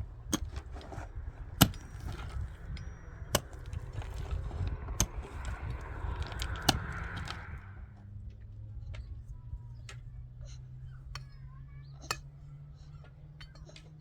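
Sharp single knocks struck about every one and a half to two seconds over a steady low rumble; the knocking stops about eight seconds in.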